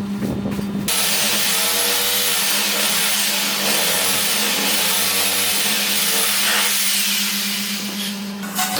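A power tool running for about seven seconds, starting about a second in and stopping near the end, its pitch dipping and rising again several times.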